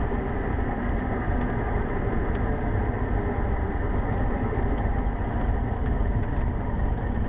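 Cessna 150's Continental O-200 four-cylinder engine and propeller running at low power, heard inside the cockpit as a steady low drone during the landing rollout and taxi off the runway.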